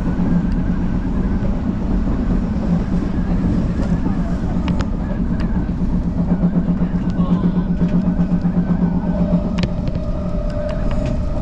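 Odakyu Line electric commuter train running, heard from inside the car: a steady low rumble and hum with scattered sharp clicks from the wheels and track. A higher steady whine joins about nine seconds in.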